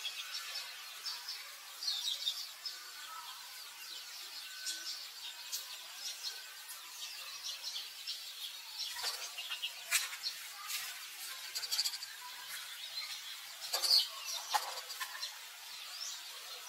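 Small birds chirping and trilling in short high calls, scattered throughout, with a few sharp clicks about nine, ten and fourteen seconds in.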